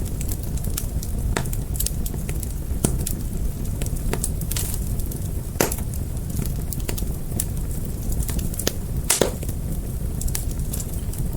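Fire crackling, with many small snaps and three louder pops, over a steady low rumble of the flames.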